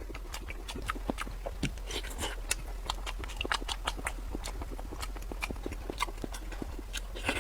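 Close-miked eating: chewing and lip-smacking, an irregular run of sharp mouth clicks, over a steady low hum.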